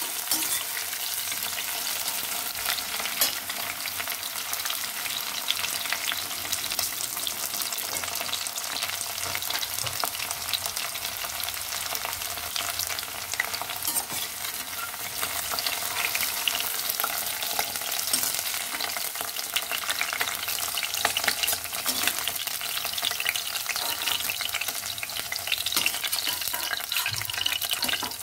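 Drumstick (moringa) pieces sizzling in hot mustard oil in a stainless steel kadhai: a steady frying hiss with scattered crackles, and the clicks and scrapes of a slotted steel spatula stirring against the pan.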